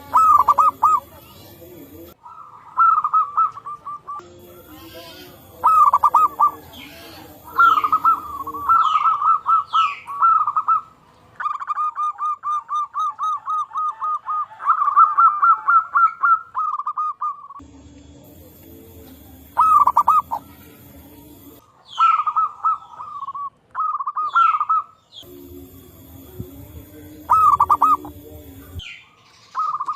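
Zebra doves (perkutut) cooing: repeated quick phrases of pulsed coos, several birds answering one another, with a long run of evenly spaced pulsed notes in the middle. Higher, thin rising chirps of other small birds come in between the phrases.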